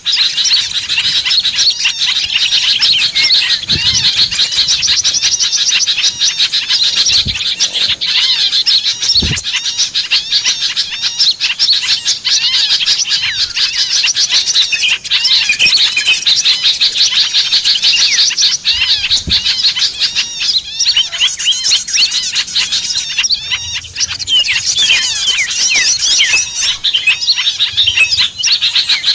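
A dense chorus of many small songbirds chirping and trilling over one another without a break, the kind of recording played as a lure to draw small birds in. A few soft low thumps sound under the chirping.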